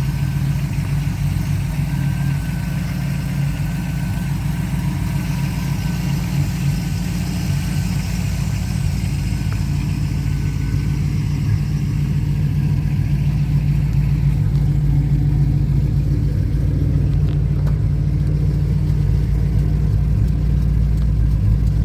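1993 Toyota pickup's engine idling steadily, a little louder in the second half.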